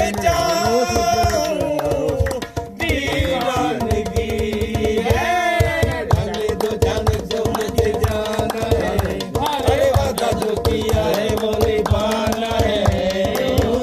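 Live music: a voice singing a Hindi song over a quick, steady hand-drum rhythm.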